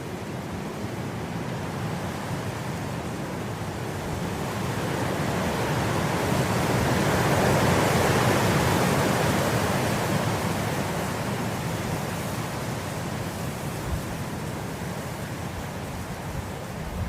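Wind blowing through grass, a steady rushing that swells into a stronger gust about halfway through and then eases off.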